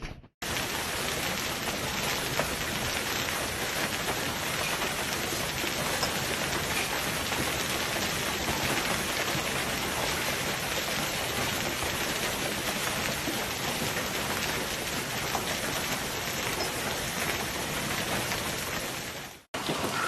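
Hailstorm: heavy rain and hail pelting down, a dense, steady hiss that starts abruptly and cuts off suddenly near the end.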